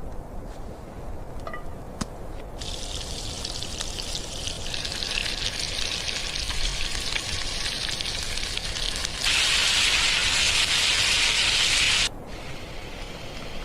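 A steady hiss that builds a few seconds in, then a much louder stretch of hissing for about three seconds that cuts off suddenly.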